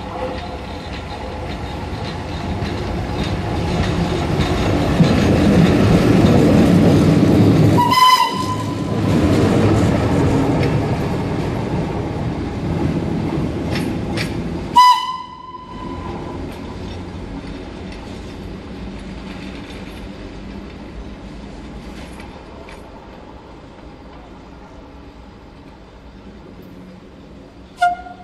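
A vintage train hauled by Italian E.626 and E.428 electric locomotives runs past. Its running noise builds to a peak as it draws near and goes by, then fades. Short horn blasts sound about a third of the way in and again about halfway, and a brief one comes near the end.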